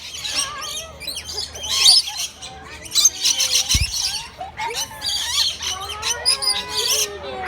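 A flock of aviary birds chirping and squawking continuously in many overlapping calls. A brief low bump sounds just before four seconds in.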